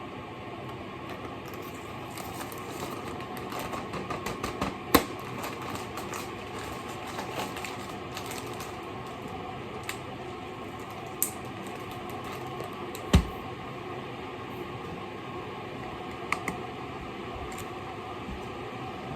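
Scattered clicks and knocks of kitchen utensils and dishes during food preparation, over a steady background hum; the loudest is a sharp knock with a low thud about thirteen seconds in.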